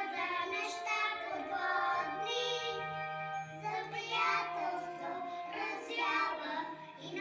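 Children singing a song over instrumental backing music, with a held low bass note coming in about two seconds in.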